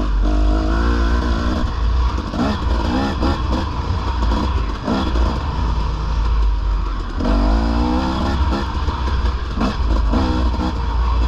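Dirt bike engine under way on a trail, rising in pitch as it accelerates twice and dropping back between, with a heavy low wind rumble on the microphone.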